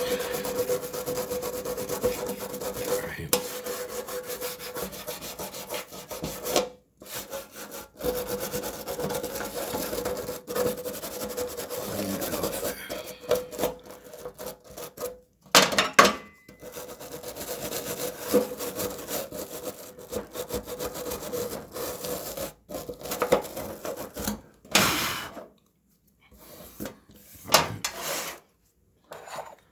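Bristle brush scrubbing a gas stove burner's ports and venturi to clear rust and deposits: rapid rubbing strokes, continuous for about the first dozen seconds, then in shorter spells with a few louder knocks.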